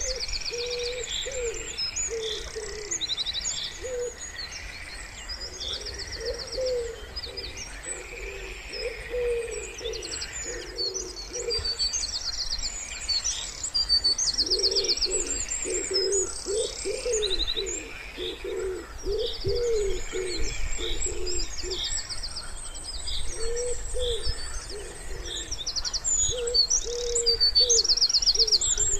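Wood pigeon cooing in repeated phrases, with several small songbirds singing over it in high chirps and rapid trills.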